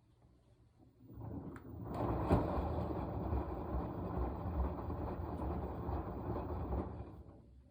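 Washing machine running its wash cycle: the drum turns for about six seconds with a low, steady rumble of tumbling laundry and water, starting about a second in and stopping near the end between pauses.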